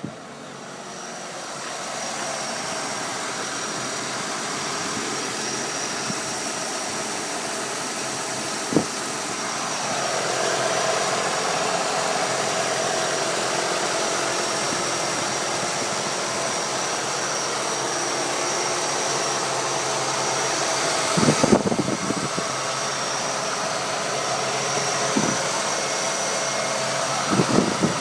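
Ford 5.0 L V8 engine idling steadily. There is a sharp click about nine seconds in, and brief louder surges around two-thirds of the way through and again near the end.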